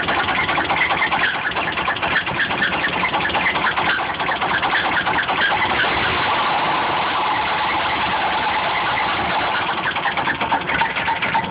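1953 Cadillac 331 overhead-valve V8 running with a fast, uneven pulsing beat, steadying and getting a little louder from about six to ten seconds in before the pulsing returns. The owner calls the engine dying.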